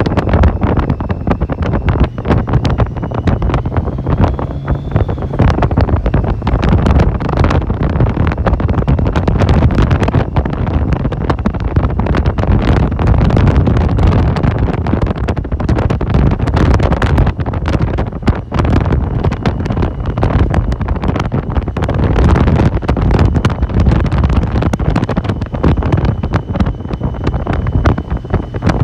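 Heavy wind buffeting the microphone on a moving motorcycle, with the motorcycle's engine running underneath.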